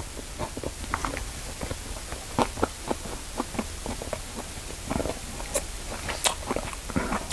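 A person chewing a mouthful of fried rice, with small irregular smacking and clicking mouth sounds.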